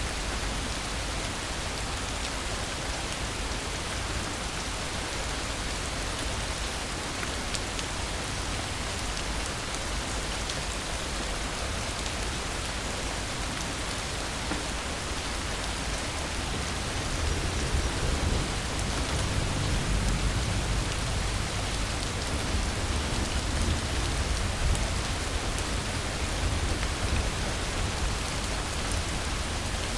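Steady rain falling, an even hiss of many drops. About halfway through a low rumble of distant thunder swells underneath and rolls on to the end.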